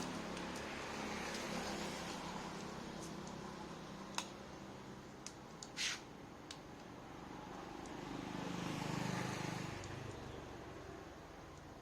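A low, engine-like rumble that fades after the start, swells again about three quarters of the way through, then fades, with a few sharp clicks and a brief scrape around the middle.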